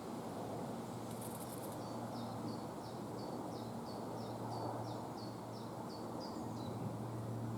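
A small songbird singing a run of about a dozen short, high, down-slurred notes at about three a second, over steady low background rumble.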